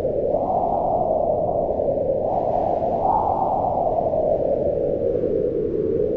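Strong wind howling in a steady rush, its low moan swelling up in pitch about half a second in and again about three seconds in, then sinking slowly.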